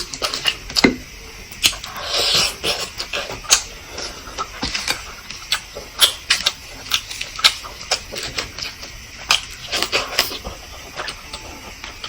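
Close-up eating sounds of someone eating fertilized duck eggs (balut): wet chewing and lip smacks in irregular clicks, with a brief slurp about two seconds in.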